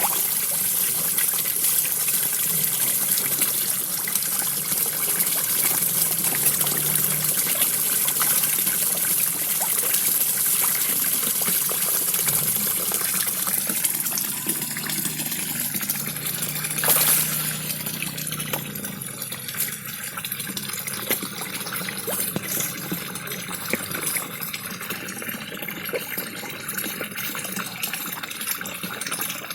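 Mini waterfall splashing steadily into a koi pond. There is a brief louder splash a little past halfway, after which the water sounds a little softer.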